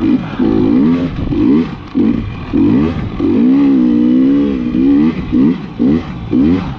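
KTM 300 XC-W TPI two-stroke dirt bike engine revving up and down in quick bursts, about two a second, with one longer held rev near the middle, as the throttle is worked over sand whoops.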